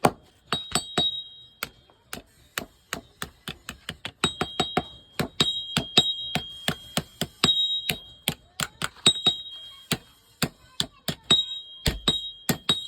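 Blacksmith's hand hammer striking hot iron on an anvil in a quick, uneven run of about three blows a second, the anvil giving a high ring that comes and goes between blows, as a hole is forged by hand in a digging-tool blade.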